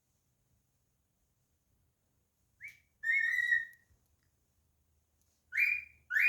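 Cockatiel whistling: after a silent start, a short rising note, then a longer held whistle, and near the end two loud notes, the last one falling.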